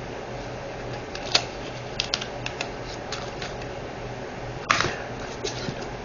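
Small sharp clicks and ticks of diamond painting drill bags and small plastic pieces being handled and set down, with two louder clicks about a second in and near the end, over a steady low hum.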